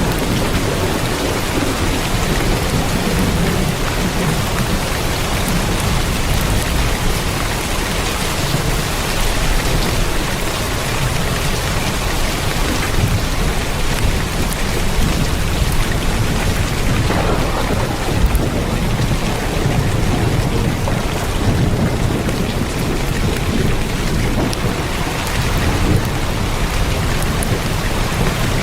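Heavy rain drumming on a tin roof: a dense, steady hiss of drops with many sharp little ticks, over a deep low rumble.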